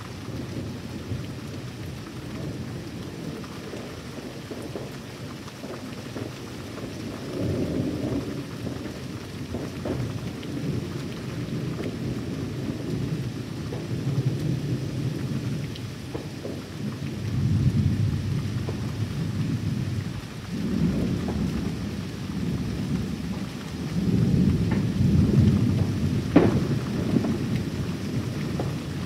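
Thunderstorm: steady rain with low rolling thunder that swells and fades several times, loudest near the end, where a single sharp crack stands out.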